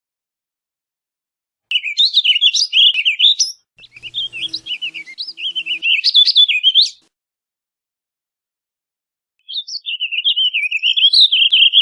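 Warbling vireo singing: three rambling, rapid warbled song phrases of a few seconds each. The first two run almost back to back, and after a pause of about two seconds the third begins near the end.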